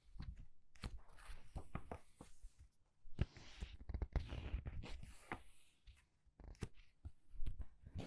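Paper pages of a book being turned quickly, several turns in a row, each a crisp rustle with soft clicks and taps, with brief pauses between them.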